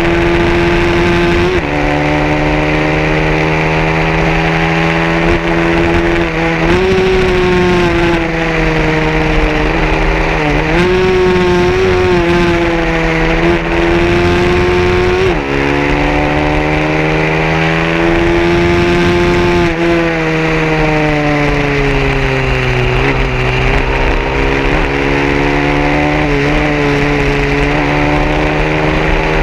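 A 150cc racing motorcycle engine running continuously at high revs, its pitch jumping and gliding up and down several times.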